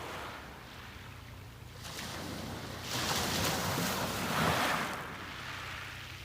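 Sea waves breaking and washing up the beach: a wave's wash swells about two seconds in, is loudest in the middle, then draws back and fades.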